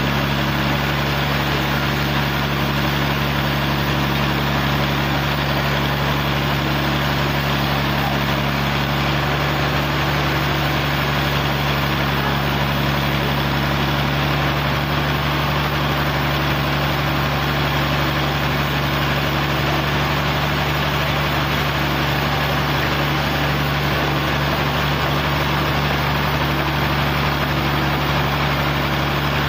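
Sawmill engine running steadily with a constant hum, one of its higher tones dropping out about halfway through.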